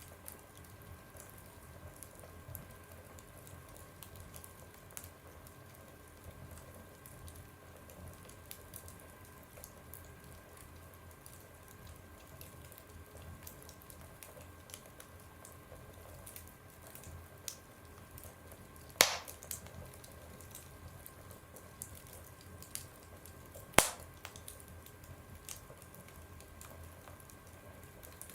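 Fire crackling in a fireplace: a steady scatter of small crackles, with two loud sharp pops about five seconds apart in the second half.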